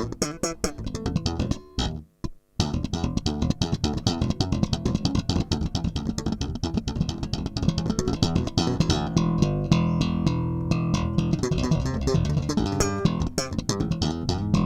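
Lowenherz Dagger 4.1 electric bass, with a single Seymour Duncan Music Man-style humbucker, played in a fast run of sharply attacked notes. The notes stop briefly about two seconds in, then carry on.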